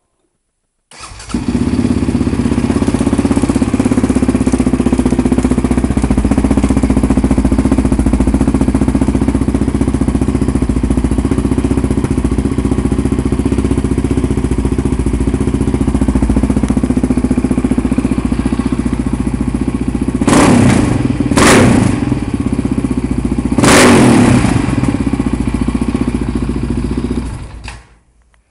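2007 Yamaha Raptor 700R's single-cylinder four-stroke engine through an HMF slip-on silencer, coming in about a second in and running at a steady idle. About three-quarters of the way through the throttle is blipped three times in quick succession, then the engine is shut off near the end.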